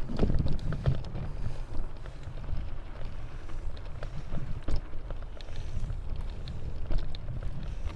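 Wind buffeting the action camera's microphone during an off-road bicycle ride, a steady low rumble, with scattered rattles and knocks from the bike over rough dirt trail.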